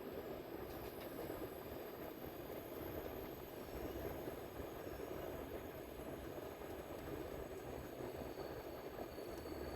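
Subway train running, a steady rumbling noise of wheels on the rails heard from inside the carriage.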